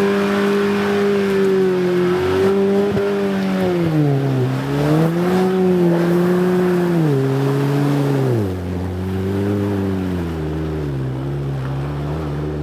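Hummer's engine pulling the truck out through the river under load. Its pitch dips and recovers about a third of the way in, then steps down twice in the second half and holds lower.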